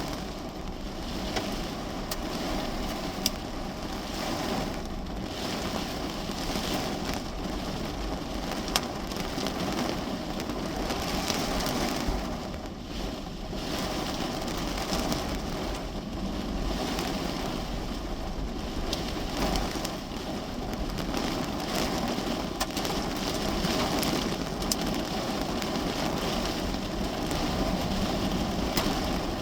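Heavy rain beating on a parked car, heard from inside the cabin: a steady wash of rain with many scattered sharp ticks of drops striking the body and glass, and a couple of louder single hits.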